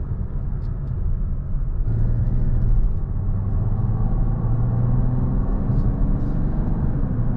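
Cabin sound of a 2024 Mazda CX-90 Turbo S under way: its turbocharged 3.3-litre inline-six pulls with a slowly rising engine note over steady road rumble. The pitch dips briefly near the end.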